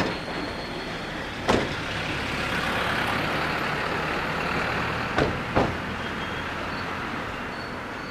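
Electric train moving slowly, with a few sharp clunks of wheels over rail joints, two of them close together near the end, over a steady rumble and a hiss that swells in the middle.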